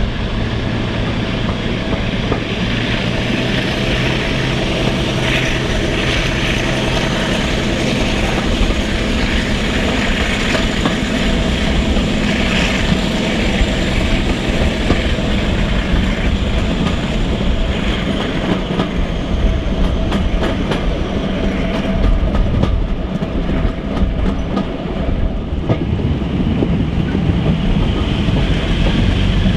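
Passenger coaches running at speed behind D821 'Greyhound', a Class 42 Warship diesel-hydraulic, heard from an open carriage window: a steady rumble of wheels on track with clicks over rail joints, over the drone of the locomotive's twin Maybach MD650 diesel engines. A faint high whine slowly rises and falls through the first two-thirds.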